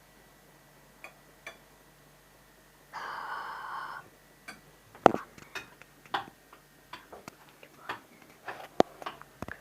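Scattered sharp knocks and clicks on a door, the loudest about five seconds in and another strong one near the end. About three seconds in there is a buzzing tone that lasts about a second.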